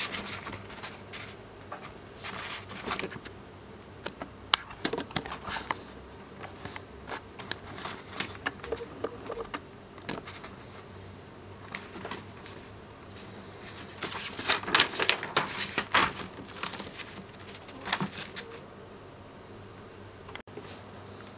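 Handling noise: paper rustling and small clicks and taps coming on and off, busiest about two thirds of the way in.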